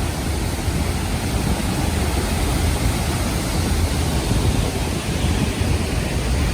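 Dambri Waterfall's water crashing down at close range: a steady, unbroken rush of noise, heaviest in a deep low rumble.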